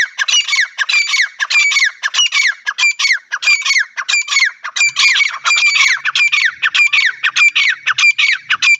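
Lovebirds calling without pause: short high calls, roughly three to four a second, each falling in pitch.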